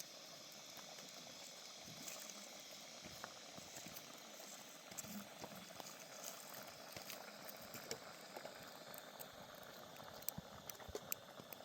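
Food cooking over a wood fire: a faint, steady bubbling hiss with many small, scattered crackles.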